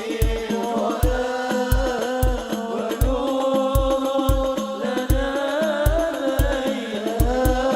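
Hadroh ensemble playing sholawat: a sung melody over slapped rebana frame drums and a deep bass drum beating about twice a second.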